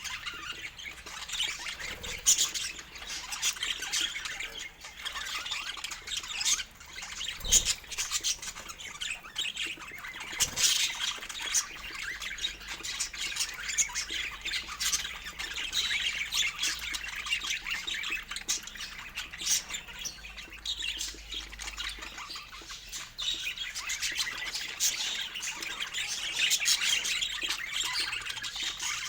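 Pet budgies (budgerigars) chattering and squawking, with a continuous run of quick chirps and short squawks.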